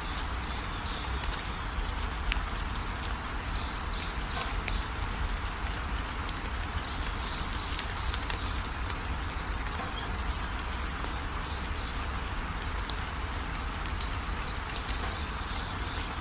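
Steady rain hissing, with scattered drop ticks and a low rumble underneath. A bird twitters in short runs of high chirps three times: about 3 seconds in, around 8 seconds, and near the end.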